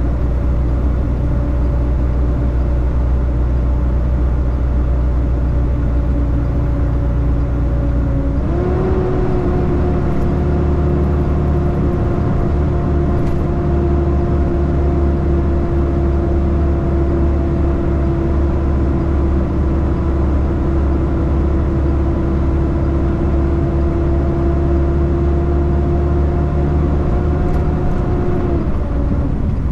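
Semi truck running at road speed: a steady low drone with a pitched whine that steps up suddenly about eight seconds in, holds level, and drops back down near the end.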